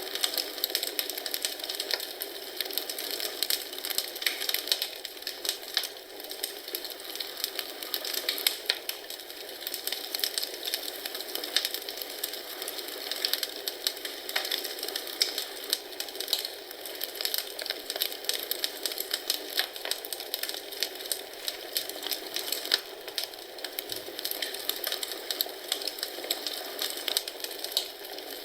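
Wood fire crackling in a fireplace: a soft steady hiss dotted with frequent irregular pops and snaps.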